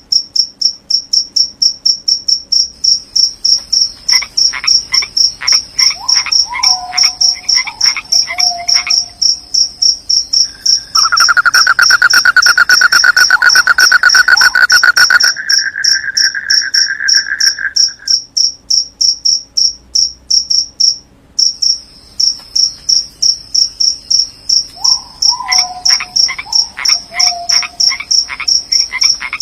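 Crickets chirping in a fast, regular high-pitched pulse throughout, with frogs calling in short series twice, about four seconds in and again near the end. A louder, lower rapid trill joins for several seconds in the middle.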